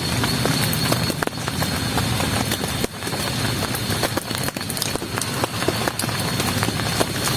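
Heavy rain falling steadily, with many sharp ticks of drops striking a surface.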